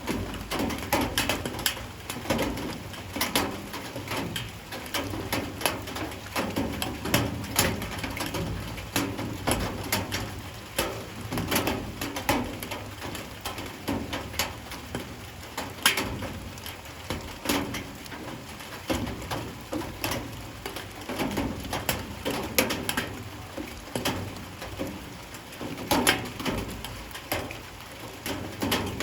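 Light rain falling, with irregular drips striking a hard surface.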